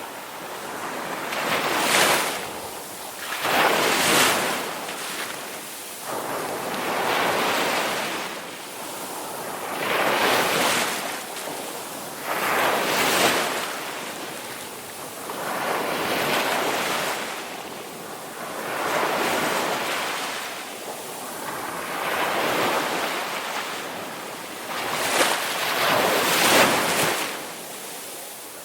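Ocean waves surging and washing onto the shore, one after another about every three seconds, each a rising and falling rush of surf.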